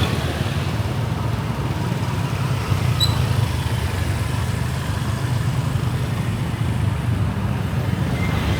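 Steady rumble of city street traffic: motorbike and car engines running.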